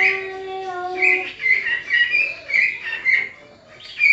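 Pet parrot calling: one long held call, then a quick run of short high chirps, and one more sharp call near the end.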